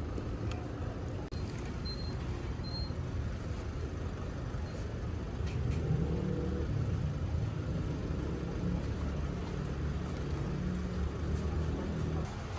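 A motor vehicle's engine running with a steady low rumble that rises slightly about six seconds in. Two short high beeps sound about two and three seconds in.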